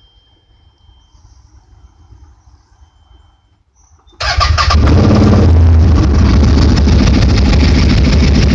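CFMoto Zforce 800 UTV's V-twin engine starting up about four seconds in and then running loud and steady through a newly fitted Two Brothers Racing aftermarket exhaust.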